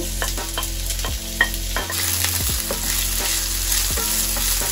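Diced red onion and garlic sizzling in hot olive oil in an enamelled pan, stirred with a wooden spoon that knocks and scrapes against the pan again and again.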